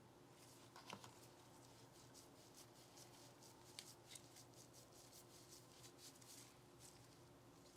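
Faint, quick scratching and light clicks of hands working on a Glock 19 pistol and its parts during cleaning, with a sharper tick about a second in and another near the middle, over a low steady hum.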